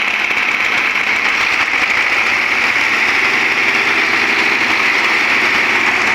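Tractor engine running steadily and loudly, with no break or change in pitch.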